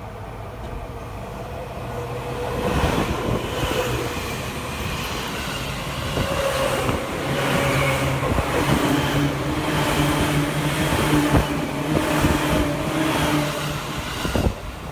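Seibu 2000 series electric train approaching and passing close by, its wheels clattering on the rails over a steady hum. It grows louder from about two seconds in and stays loud as the cars go past.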